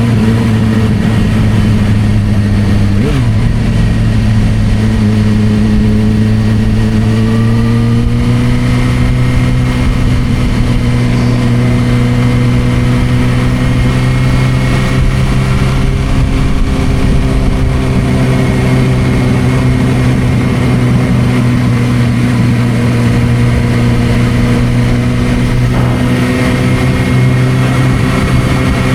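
Suzuki GSR600's inline-four engine through a Dominator aftermarket exhaust, running steadily at cruising revs, with small rises and dips in pitch, over a rush of wind noise.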